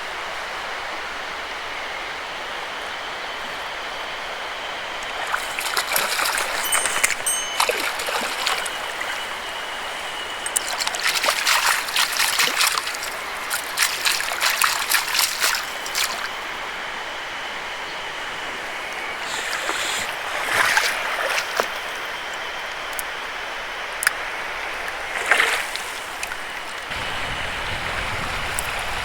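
Mountain stream flowing steadily, broken by several louder bursts of noise close by: one stretch about five to sixteen seconds in, then shorter ones around twenty and twenty-five seconds.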